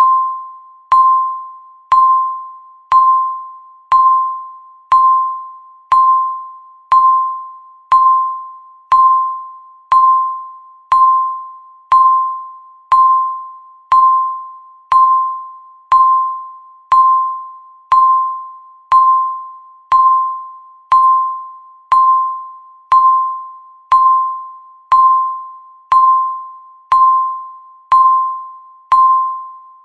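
Countdown timer's electronic tick, one short, bright, bell-like tone each second. Each tone starts sharply and fades away before the next, in an even, unchanging rhythm.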